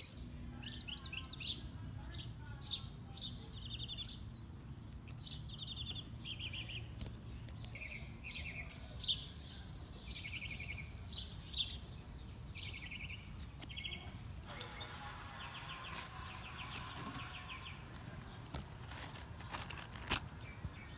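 Small birds chirping outdoors: many short, rapid trilled phrases one after another, over a low rumble. A few sharp clicks stand out, about nine, eleven and a half and twenty seconds in.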